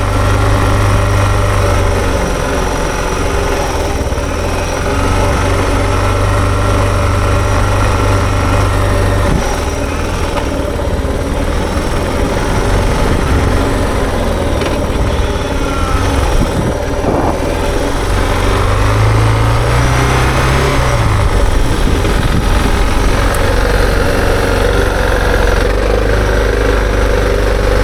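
Suzuki DR650 dual sport's single-cylinder four-stroke engine running steadily under way, its pitch rising and falling briefly about two-thirds of the way through.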